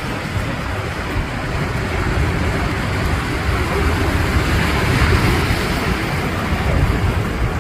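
Ocean surf rushing steadily with a low rumble, swelling slightly around the middle; wind buffets the microphone.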